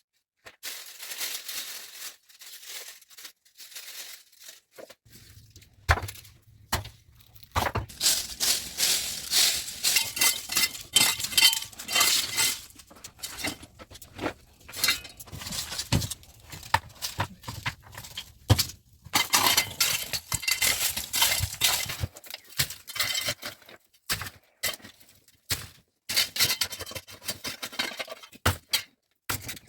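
Hard objects clinking and knocking together in quick, irregular strikes, thickening into a dense clatter from about eight seconds in.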